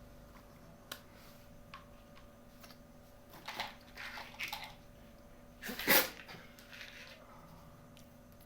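Miniature plastic toy kitchen pieces and packaging being handled: scattered light clicks and short rustles, the loudest a brief burst about six seconds in, over a faint steady hum.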